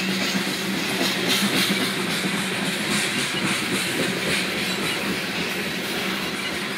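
Loaded coal hopper cars rolling past, steel wheels clicking rhythmically over the rail joints above a steady rumble with a low hum.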